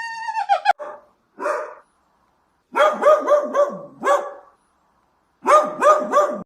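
A dog barking in two quick runs of short, high, repeated barks, after a drawn-out whine at the start that drops in pitch.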